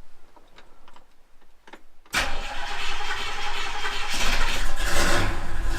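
1957 Chevrolet Bel Air engine started from cold: quiet for about two seconds, then it suddenly turns over and catches, settling into a running rumble that grows heavier about four seconds in.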